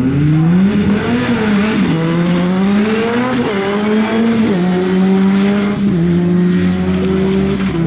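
Hill-climb race car launching from the start and accelerating away, engine pitch rising after the launch and dropping at each of several gear changes. A thin high whine rises along with it.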